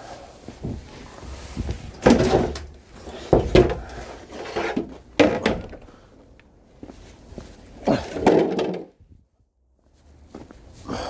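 A series of knocks, clunks and thuds, the loudest about two seconds in, from things being handled, shifted and set down, with a door or lid shutting among them.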